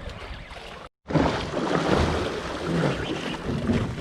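Wind buffeting the microphone and water washing against a small boat, cut by a brief dead-silent dropout about a second in, after which the noise comes back louder.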